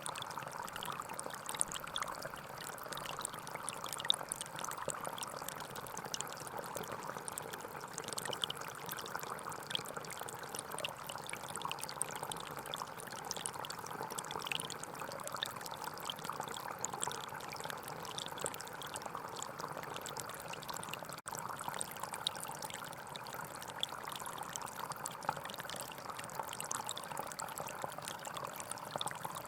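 Gentle forest stream flowing steadily, a continuous rush of water with many small trickles and splashes. There is a momentary break about two-thirds of the way through.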